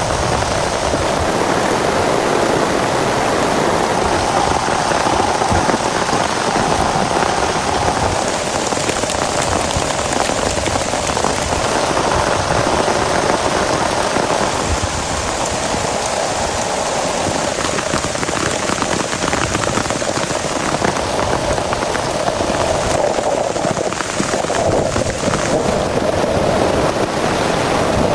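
Heavy rain falling steadily on a surface: a dense, even hiss made of countless small drop impacts, holding the same loudness throughout.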